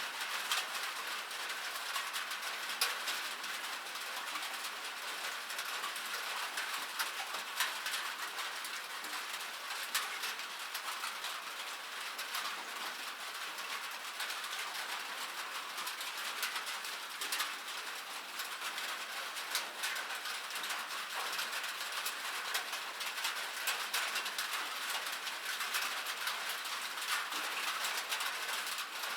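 Steady rain falling on metal: a constant hiss dotted with many sharp ticks of drops striking the metal surface.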